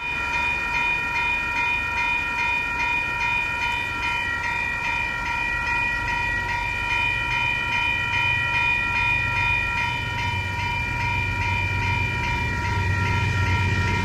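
Level crossing warning bells ringing steadily as a ringing ring of high tones. Beneath them, the low rumble of an approaching train grows louder over the last few seconds.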